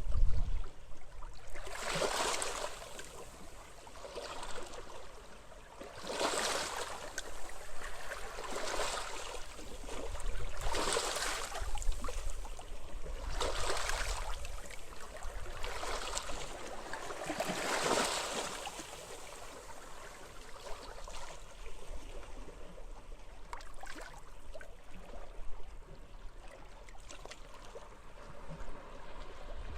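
Small waves washing up on a beach, one soft wash swelling and fading about every two to three seconds, over a faint low wind rumble. The washes grow weaker in the second half.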